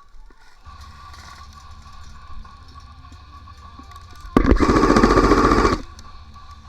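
A burst of full-auto airsoft gun fire, about a second and a half of rapid shots, starting about four seconds in.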